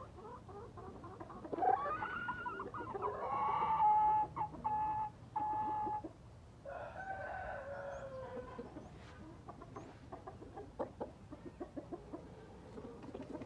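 Gamefowl rooster crowing: a long crow begins about two seconds in, and its drawn-out last note breaks into pieces. A second, falling call follows about a second later, then a run of short clicks.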